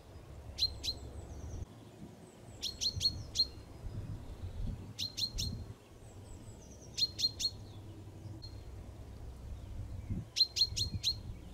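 A songbird singing short phrases of two to four quick, sharp high notes, each phrase repeated every two seconds or so, over a low rumble.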